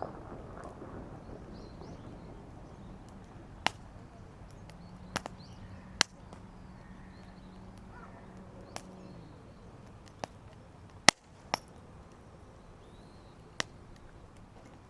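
Damp firewood crackling in a campfire, with sharp irregular pops at intervals of about a second or more. A faint low hum comes in a few seconds in and fades out about midway.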